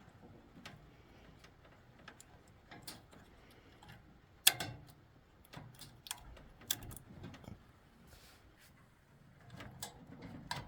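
Irregular light clicks and taps of small hard parts being handled, with one sharp click about four and a half seconds in.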